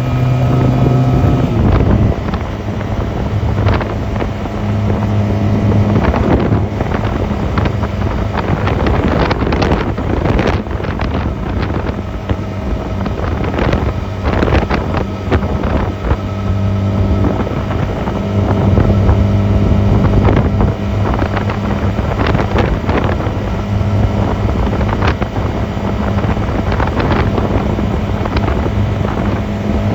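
Honda 250cc motorcycle engine running under way, its pitch dropping about a second and a half in as the throttle eases or a gear changes, then holding steady with small shifts. Wind buffets the microphone throughout.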